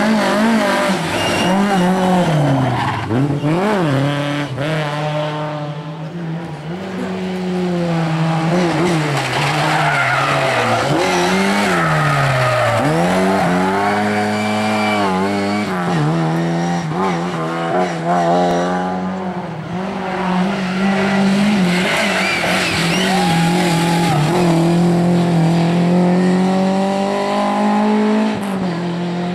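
Lada rally car engines revving hard, the pitch dropping and climbing again and again through gear changes and corners, then held high for a long stretch near the end. Tyres squeal and skid on the loose stage surface in the bends.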